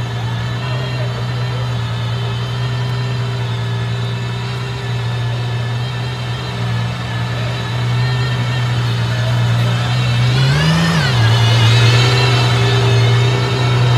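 Ferrari Purosangue's V12 idling with a steady hum, blipped once about ten seconds in so that the pitch rises and falls back within about a second.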